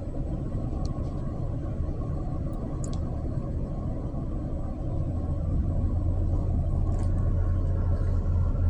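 Low steady rumble with a few faint clicks, growing a little louder about halfway through.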